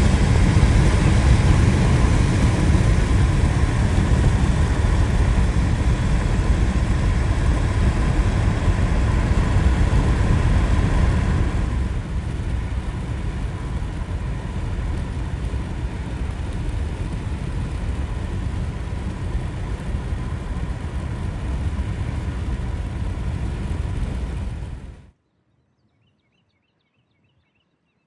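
Steady, loud road-and-wind rumble of a car on the move, heaviest in the low end. It drops a step in loudness about twelve seconds in and cuts off suddenly near the end, leaving near silence with a few faint chirps.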